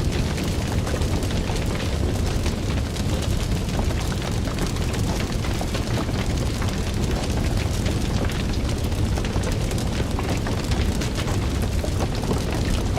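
Fire burning with a steady low rumble and many small crackles and pops.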